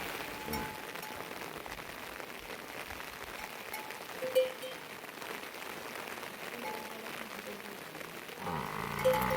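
Steady rain falling. A short sharp sound comes about four seconds in, and a louder pitched sound near the end.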